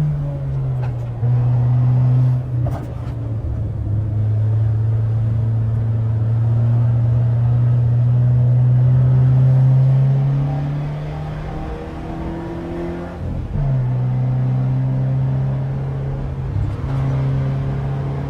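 Peugeot 206's four-cylinder engine running through a straight-piped exhaust and an open performance intake, pulling under load with its pitch climbing slowly, then easing off. About thirteen seconds in there is a short break, as in a gear change, and it settles into steady running at a fairly high pitch.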